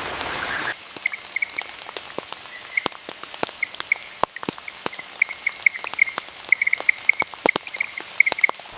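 Steady rain hiss that cuts off suddenly under a second in, followed by scattered water drops and a frog calling in quick clusters of short chirps.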